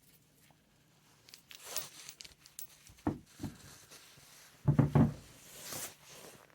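Packaging rustling and tearing in two spells, with a few dull knocks, the loudest a pair about five seconds in.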